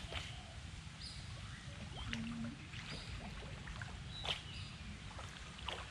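Outdoor ambience of short bird calls and chirps repeating over a low, steady rumble, with a few sharp clicks scattered through.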